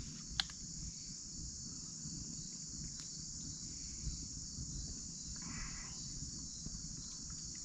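Steady, high-pitched chorus of insects, an even unbroken drone with no pauses.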